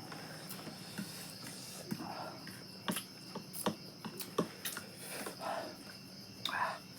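Eating sounds: chewing and mouth noises with a series of sharp clicks, over a steady high chirping of crickets.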